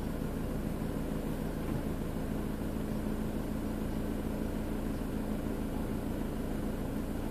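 Vehicle engine idling steadily, heard from inside the cabin as a constant low hum.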